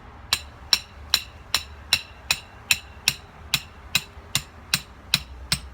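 Hammer blows driving the stake of a dog-proof raccoon trap into the ground: a steady run of about fourteen strikes, roughly two and a half a second, each ringing briefly.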